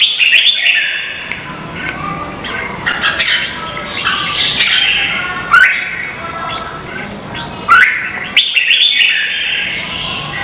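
Red-whiskered bulbuls singing in a duel: short, loud whistled phrases with quick rising and falling notes, one after another in bursts with brief pauses.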